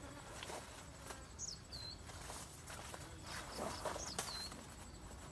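A bird calling twice, about two and a half seconds apart: each call is a short high note that drops and ends in a brief level tail. Faint outdoor background with a few soft rustles.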